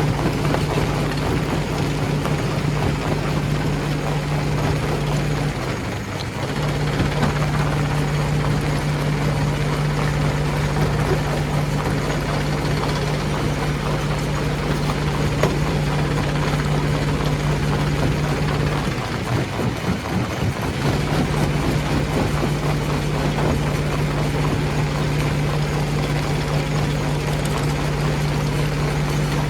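Stone crusher machine running: a steady low drone under a dense rattling noise, dropping out briefly about six seconds in and again around twenty seconds in.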